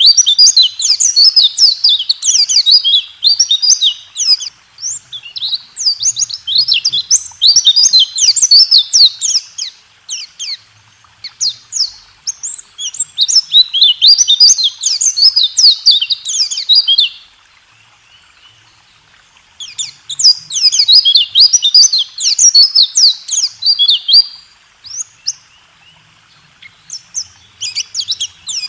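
White-eye (pleci) singing a fast, high twittering song in loud phrases of a few seconds each, broken by short pauses: the rapid 'rol tembak' song used as a masteran, a training recording for cage birds.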